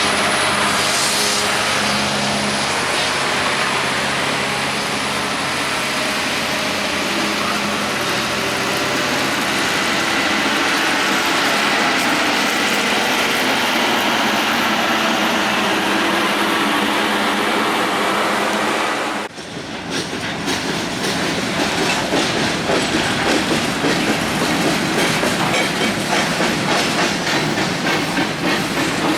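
Freight train passing close by: a steady heavy rumble with a low engine hum for about the first two thirds, then, after an abrupt break, the rapid clickety-clack of freight car wheels over the rail joints.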